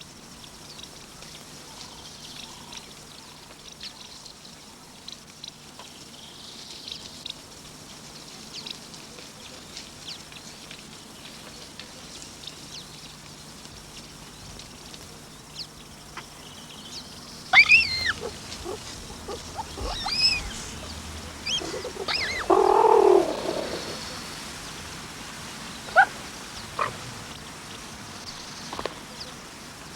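Wildlife sounds over quiet natural ambience. There are faint scattered high chirps, then a few sharp calls that fall in pitch about halfway through, a louder call a few seconds later, and a few short chirps near the end.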